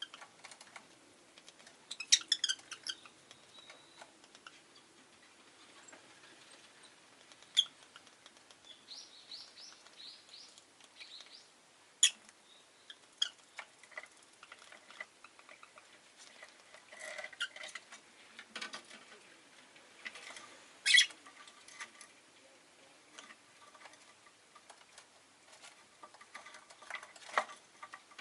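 Rosy-faced lovebird giving short chirps now and then, a quick run of chirps about two seconds in and a group of rising chirps a few seconds later, among scattered sharp clicks and taps.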